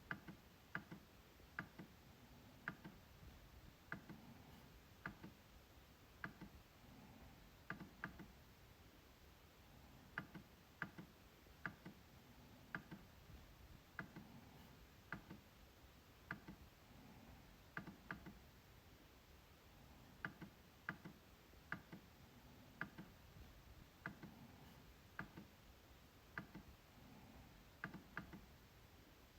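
MacBook trackpad being clicked: short sharp single clicks, about one a second and unevenly spaced, some coming closer together.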